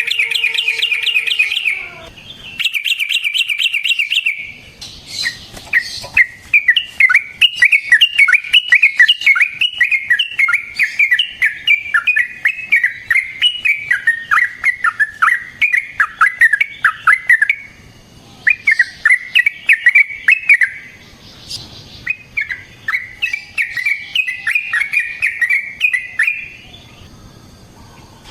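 Yellow-vented bulbul (trucukan) singing long, rapid rolls of short bubbly notes in several bouts separated by brief pauses, with the longest roll lasting about twelve seconds.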